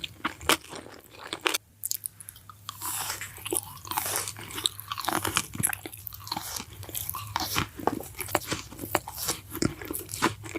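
Close-miked eating sounds: a person biting and chewing crunchy food, with a dense run of crisp crunches and mouth clicks. A brief pause comes about two seconds in.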